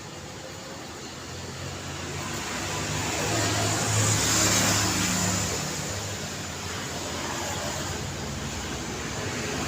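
Road traffic: a car passes, its engine and tyre noise building to a peak about halfway through, then fading into the steady traffic.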